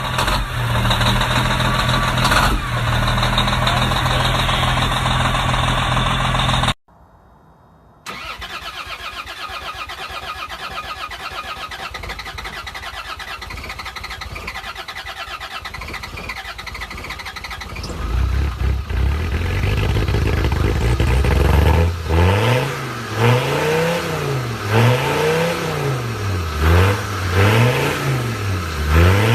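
A diesel engine runs steadily, then cuts off abruptly about seven seconds in. After a brief gap a cold diesel engine turns over on its starter for about ten seconds, catches, and is then revved up and down again and again, about once a second.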